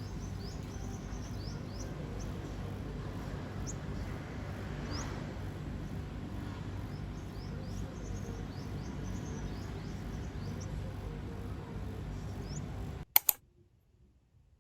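Steady background hum with small birds chirping now and then. About thirteen seconds in, the sound cuts off abruptly with two sharp clicks, leaving near silence.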